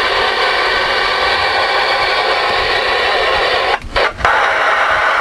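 CB radio receiver speaker hissing with loud, steady static and faint steady tones. The hiss cuts out twice briefly about four seconds in.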